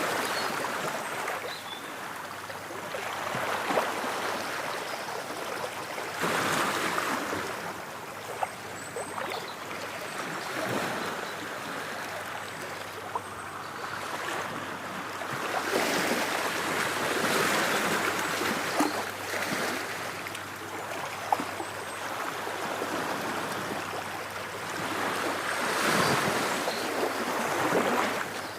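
Ocean waves breaking and washing on a shore, the surf swelling and ebbing every few seconds, with light crackling from the water.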